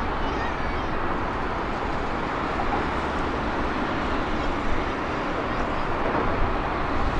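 Boeing 777-300ER's GE90 jet engines, a steady rushing noise as the airliner comes in to land.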